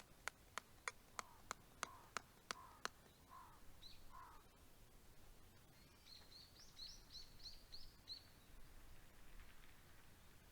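A run of about ten sharp clicks, roughly three a second, with soft lower chirps between them; then, about six seconds in, a bird gives a short phrase of quick high chirps.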